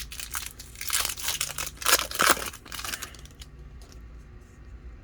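Foil booster pack of Pokémon trading cards being torn open and crinkled: a run of crackling and tearing that is loudest about two seconds in and dies down after about three seconds.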